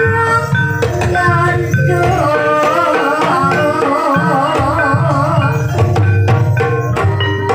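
Ebeg dance accompaniment music: hand-drum (kendang) strokes under pitched melodic instruments, with a wavering melodic line about halfway through.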